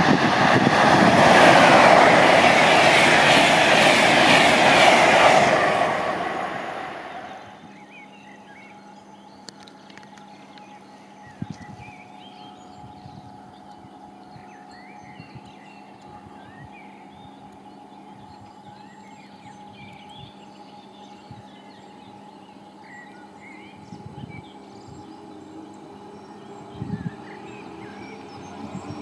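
An electric-locomotive-hauled passenger train rushes past at speed, its noise fading out about seven seconds in. Then a quieter stretch follows, with a steady electric hum from a Stadler KISS double-deck electric multiple unit rolling slowly into the platform, birds chirping, and a few dull thuds.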